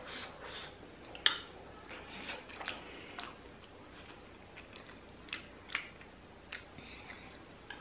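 Close-up eating sounds: chewing dumplings (momo) and taking spoonfuls of broth from a metal spoon, with a few sharp clicks and mouth smacks, the loudest about a second in.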